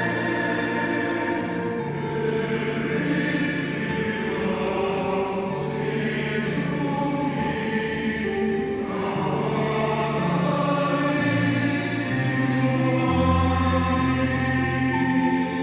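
A choir singing held chords that change every second or two, with the hiss of sung consonants coming through a few times.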